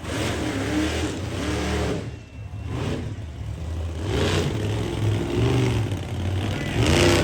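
Monster truck engine revving hard in repeated surges, its pitch rising and falling. It eases off briefly about two seconds in, then picks up again, louder near the end.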